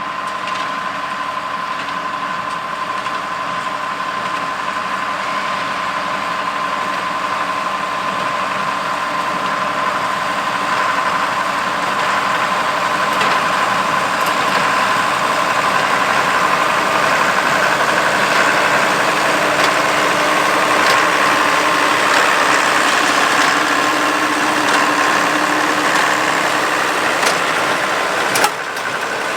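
Allis-Chalmers 200 tractor running steadily under load as it pulls a working New Holland 273 square baler, with faint knocks from the baler over the engine. The machinery grows gradually louder as it nears.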